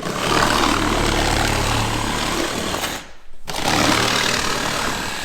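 Reciprocating saw (sawzall) cutting through a vehicle's sheet-metal roof, a harsh buzzing rasp over a steady motor hum. It stops for about half a second roughly three seconds in, then starts cutting again.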